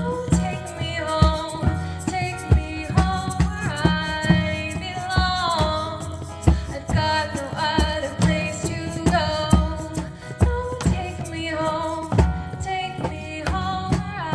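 Live music: a woman singing a gliding melody over a steady hand-drum rhythm.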